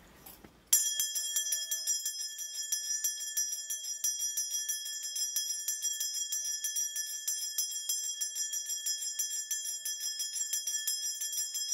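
Korean shaman's ritual bells (a cluster of small bells on a handle) shaken rapidly and continuously, a steady jingling with a clear ringing tone, starting just under a second in.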